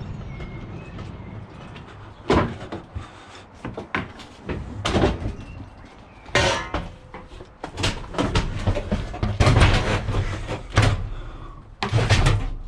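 A heavy washing machine being manhandled on a dolly: a run of irregular loud clunks and bangs as its metal casing knocks about, with scraping and rumbling between the knocks.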